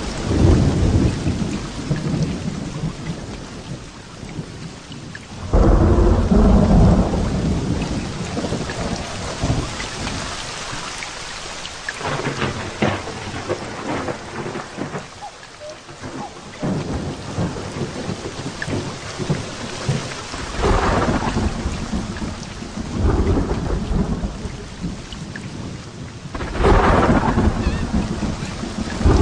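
Heavy rain falling steadily through a thunderstorm, with repeated rolls of thunder; the loudest claps break in suddenly about five seconds in and again near the end, then rumble away.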